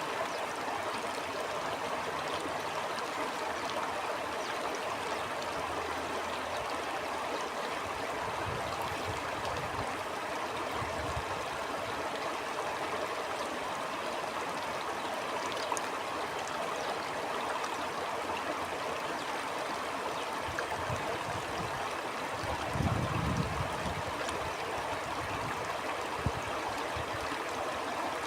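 Small stream flowing and gurgling steadily, with a few low gusts of wind, the strongest about three-quarters of the way through.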